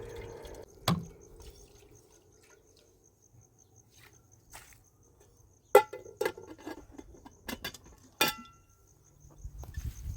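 An insect, cricket-like, chirring as a faint steady high-pitched trill, with a few sharp knocks or clinks: one about a second in, a cluster around the middle, and a loud one near the end.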